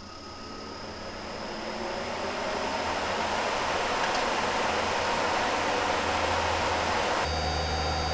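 12 V air-conditioning unit running: a steady rushing fan noise that builds over the first two or three seconds and then holds. About seven seconds in it changes suddenly to a lower, steadier hum with a few fixed tones.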